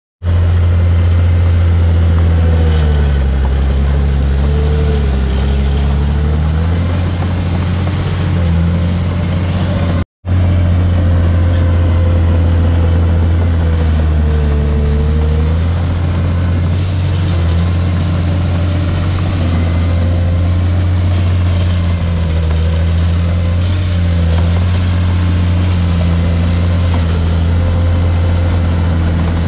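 Bulldozer diesel engine running steadily under load, its pitch sagging and recovering twice as it works. The sound cuts out for a moment about ten seconds in.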